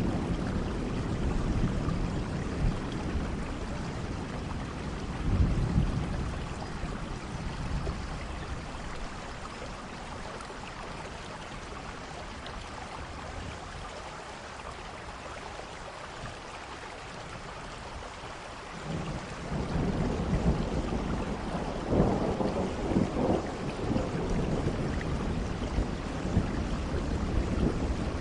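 Steady rain with rolling thunder. The low rumbling dies away over the first several seconds, then a new peal of thunder rolls in about two-thirds of the way through, with crackling bursts at its height.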